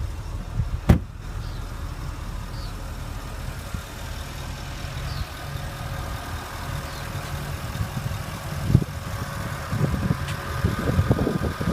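Porsche Cayenne GTS's 4.8-litre V8 idling steadily, with one sharp clunk about a second in and a few thumps and knocks near the end.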